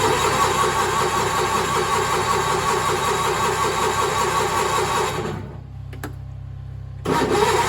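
Sears Suburban garden tractor's engine being cranked by its electric starter, turning over with a fast, even pulse but not catching. It cranks for about five seconds, stops, and starts cranking again near the end. The owner suspects the tractor may be out of gas after sitting for months.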